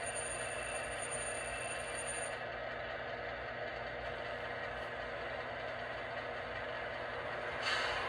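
O-scale model E7 diesel locomotive with a Blunami sound decoder, playing a steady diesel engine sound. A faint high whine stops a couple of seconds in, and a brief hiss comes near the end.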